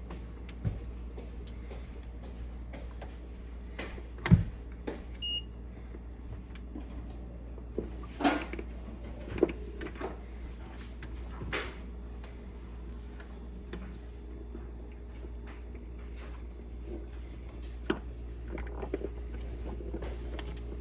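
Scattered knocks and clicks of parts and tools being handled, the loudest about four seconds in, over a steady low hum.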